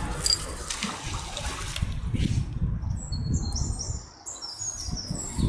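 A bird singing a run of high, stepped notes from about three to five seconds in, over a low rumbling outdoor noise.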